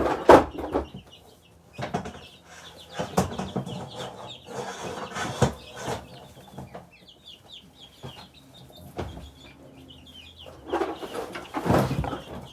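Baby chicks and ducklings peeping over and over in short high cheeps, with rustling and knocks of material being handled, loudest at the start and near the end.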